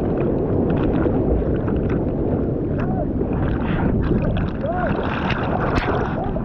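Seawater sloshing and rushing around the microphone with wind buffeting it: a steady, loud rush with scattered splashy clicks.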